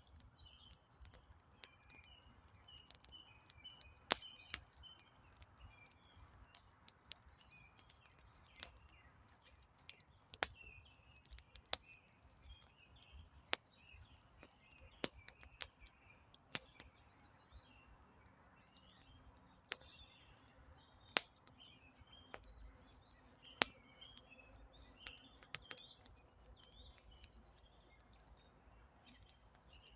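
Wood campfire crackling, with sharp irregular pops spread throughout, while small birds chirp almost continuously in the background.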